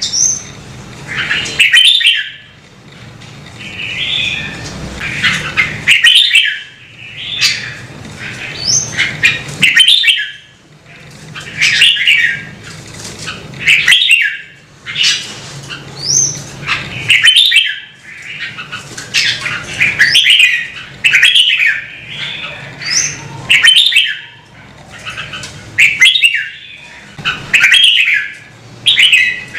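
Red-whiskered bulbul singing: loud, short warbling phrases repeated every one to two seconds, some ending in a high rising note.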